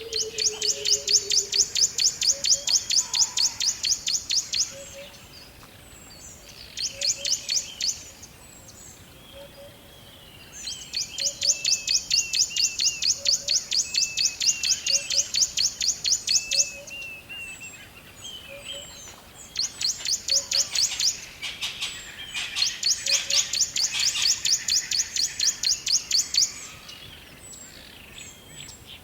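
Forest ambience with birdsong: a high, rapid pulsing trill that comes in bouts of several seconds, four of them, with softer chirps in the gaps and a row of faint low notes underneath.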